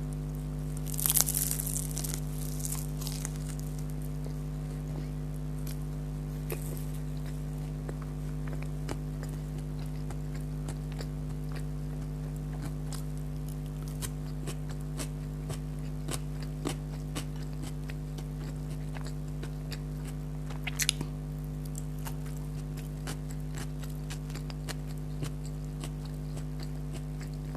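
Close-miked eating of beef kachori and sour onion: a loud crunchy bite about a second in and another about three-quarters of the way through, with small crunching chewing clicks between. A steady low electrical hum runs underneath.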